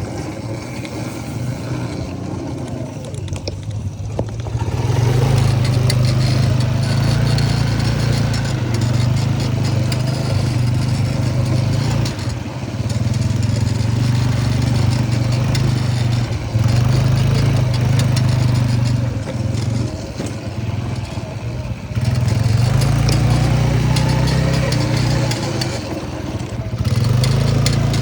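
Can-Am vehicle's engine running under way, its low hum holding a fairly even pitch while it grows louder and eases off several times as the throttle is opened and backed off.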